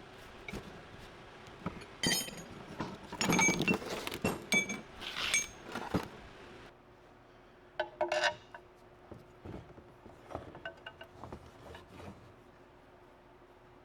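Metal parts and hand tools clinking and clanking as they are handled and set down on a shop bench: a flurry of sharp knocks with short metallic rings about two to six seconds in, another brief clatter near eight seconds, then a few lighter taps.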